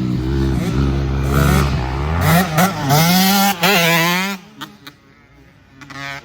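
Motocross dirt bike engine revving hard and accelerating, its pitch climbing in several rising sweeps as it shifts up. It drops away sharply a little past four seconds in.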